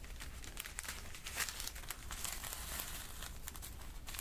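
Fingers handling the crinkly plastic of a diamond-painting kit close to the microphone: a run of irregular soft crackles and crinkles.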